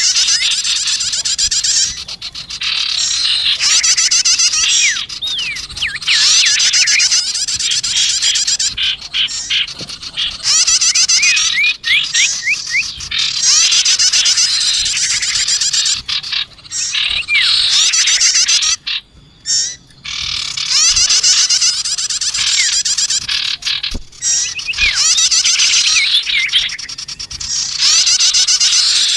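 Looped bird-lure recording of small songbirds, sirtu and bar-winged prinia (prenjak tamu), calling in rapid, high chattering trills. The calls come in repeating bursts of about two seconds with short breaks between them.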